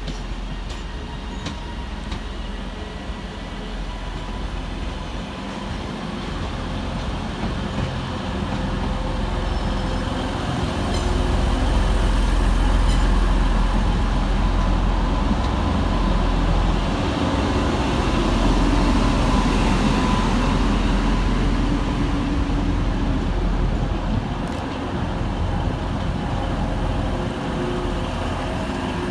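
Passenger train running at the platform: a steady low rumble with faint held whining tones, growing louder about a third of the way in and easing off slightly near the end.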